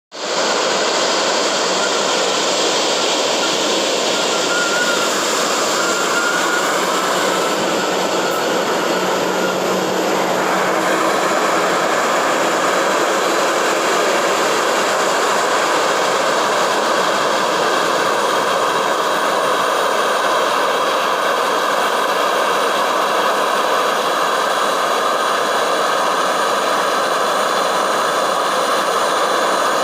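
Jet airliner's turbofan engines running with a steady, loud noise and faint whining tones. About ten seconds in, the sound shifts and becomes brighter and hissier.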